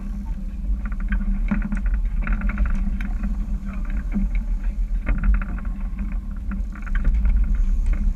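Boat engine running steadily with a low, continuous drone.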